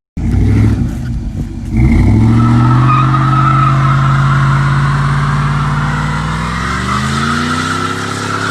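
Cammed 6.2-litre V8 truck engine revving up about two seconds in and held at high revs while the tyres squeal, as in a burnout; the revs fall away near the end.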